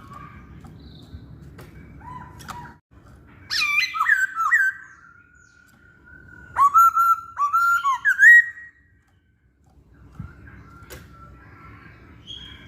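Poksay Hongkong (a laughingthrush) singing: two loud phrases of clear, looping whistled notes, the first about three and a half seconds in and the second about six and a half seconds in, with quieter chirps and a few sharp clicks around them.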